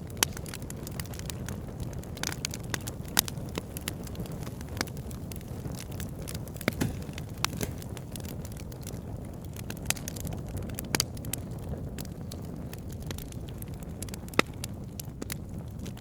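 Wood campfire burning, crackling with irregular sharp pops over a steady low rush; a few pops stand out louder than the rest.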